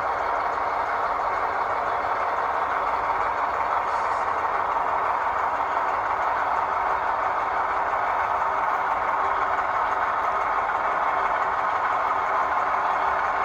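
Diesel locomotive engine running steadily at idle.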